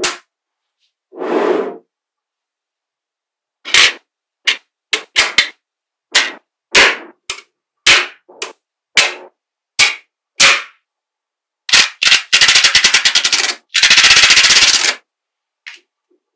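Small magnetic balls clicking as they snap onto each other, about a dozen separate sharp clicks. Near the end come two fast rattling runs of clicks, each about a second and a half long, as a string of balls snaps together.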